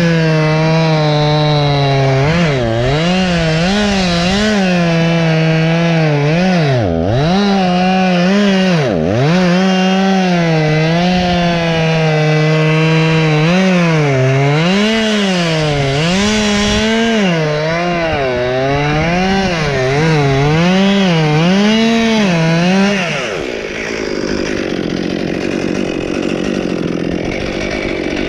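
Two-stroke gasoline chainsaw running at high revs and cutting wood, its engine note rising and falling repeatedly as the chain loads and frees. It dips sharply twice early on. About 23 seconds in the engine note drops away, leaving a quieter, rougher noise.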